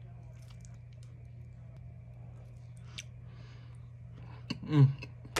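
Close-up chewing of a bite of Lunchables mini pepperoni pizza, with faint wet mouth clicks over a steady low hum. Near the end comes a short, loud vocal sound that falls in pitch.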